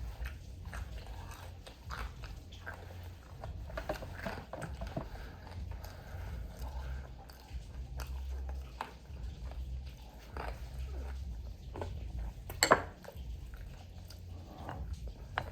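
Close-miked chewing and biting of crispy fried food, with scattered crunches and wet mouth noises over a low steady hum. A sharper, louder crunch comes near the end.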